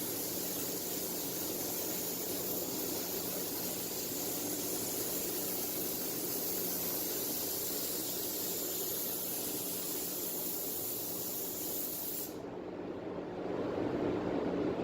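DeVilbiss GTi spray gun hissing steadily as paint is sprayed. It cuts off suddenly about 12 seconds in as the trigger is released, leaving a lower steady rush of air that grows louder near the end.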